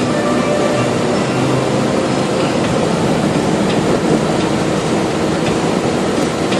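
Steady rush of wind and road noise inside a moving car, with a window open.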